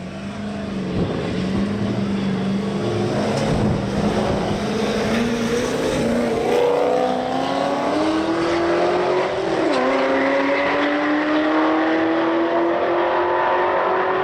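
Race car engine in a roll race, holding a steady note as it rolls, then accelerating hard with its pitch climbing. About ten seconds in the pitch drops sharply at an upshift and climbs again.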